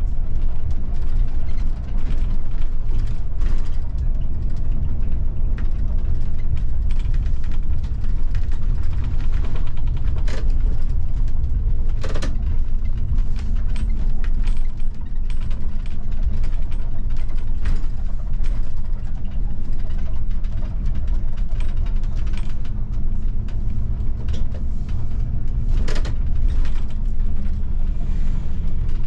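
A bus driving, heard from the driver's cab: a steady low engine and road rumble, with the cab's fittings creaking and rattling and a few sharp knocks, the loudest about 12 and 26 seconds in.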